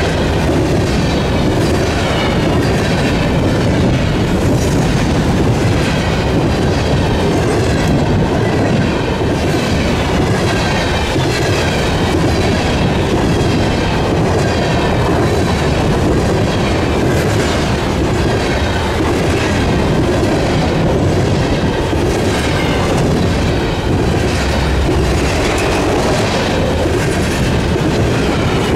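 A train's cars rolling past on the rails: a steady, loud rumble and clatter of wheels on track.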